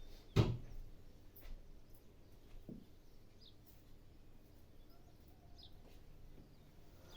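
A sharp knock about half a second in and a softer one a couple of seconds later, from stones and tools being handled while setting stone cladding in tile adhesive. Two faint, brief bird chirps in the background.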